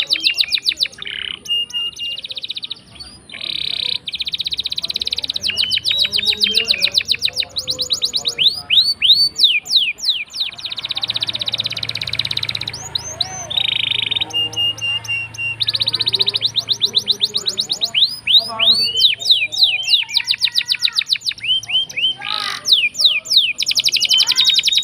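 Domestic canary singing a long, unbroken song of fast repeated trills and dense rolls, with a few short held whistles between them.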